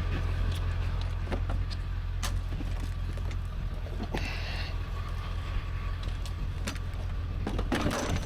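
A vehicle engine idling with a steady low hum, with scattered light clicks and knocks over it and a short hiss about four seconds in.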